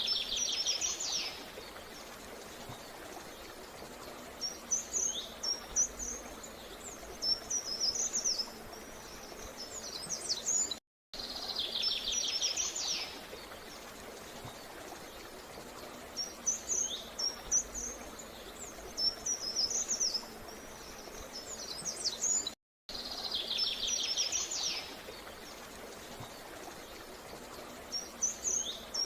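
Small birds singing: a fast buzzy trill followed by a run of high chirps and twitters, over a steady hiss of insects. The same short stretch of recording repeats about every 11 to 12 seconds, with a brief cut to silence at each loop point.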